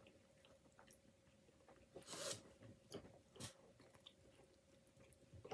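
Faint eating sounds: a few short bursts of chewing and crunching as poutine is eaten by hand, the loudest about two seconds in, over a faint steady hum.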